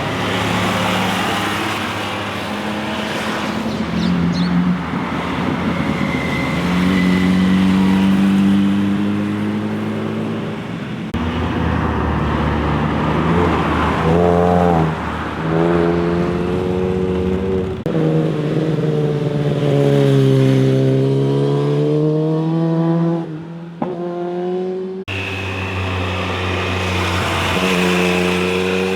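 Motorcycle engines revving through mountain-road bends, their pitch rising and falling as each bike accelerates and goes by. The sound changes abruptly from one bike to the next three times.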